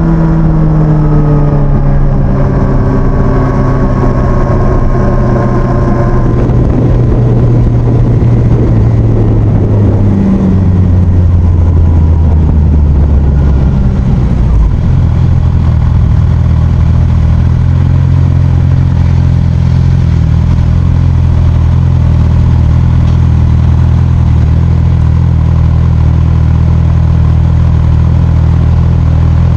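Motorcycle engine running while riding, its pitch falling over the first few seconds as it slows. It settles into a steady, even drone from about halfway on.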